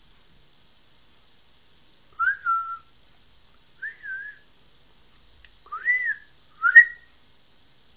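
Four short whistled notes, each rising then falling in pitch, spaced a second or two apart. A sharp click comes with the last and loudest note, near the end.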